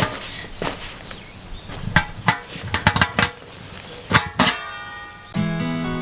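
A series of sharp knocks and clinks, irregular and closely bunched in places, some with a brief ring. Background music starts about five seconds in.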